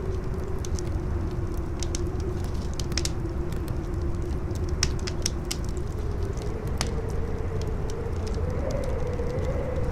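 Campfire crackling with scattered sharp pops, over strong howling wind: a wavering low howl that rises a little in pitch in the second half, with a deep rumble beneath.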